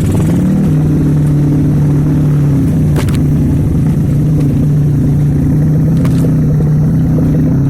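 Motorcycle engine running steadily under way, its pitch stepping up a little about half a second in, with two brief clicks along the way.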